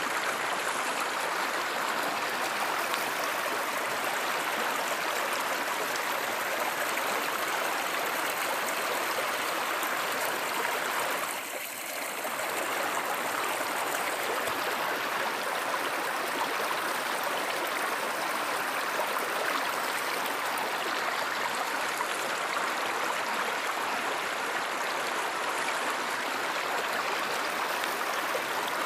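Steady rushing of a flowing river or stream, an even wash of water noise that briefly dips about twelve seconds in.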